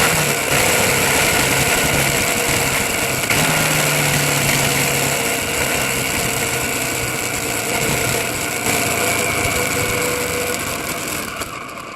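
A vehicle's engine running steadily under a loud, even rush of noise.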